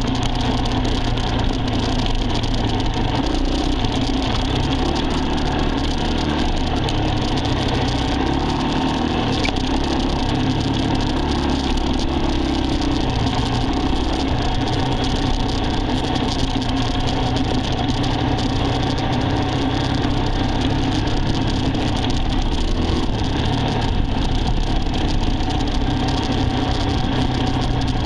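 A vehicle's engine running steadily, with only small changes in engine speed.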